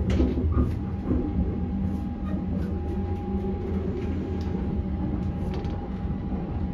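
Running noise of a 285-series sleeper electric train heard from inside the car: a steady low rumble with a thin, steady whine above it and a few faint clicks and knocks.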